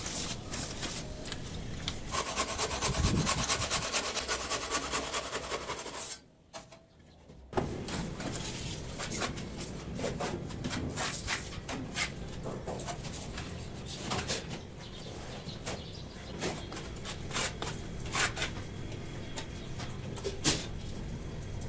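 Scraping and rubbing with scattered sharp taps, from hand work on stone and mortar, broken by a brief near-silent gap about six seconds in.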